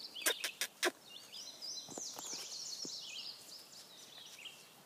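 Wild birds singing: a run of quick, high, falling chirps in the background, fading near the end. Four short clicks come just before it, in the first second.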